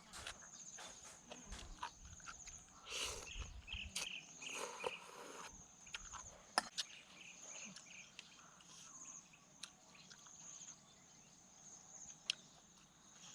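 Insects chirring outdoors, a steady high-pitched trill pulsing in regular chirps. Over it come scattered clicks and crunchy bursts of eating, busiest a few seconds in.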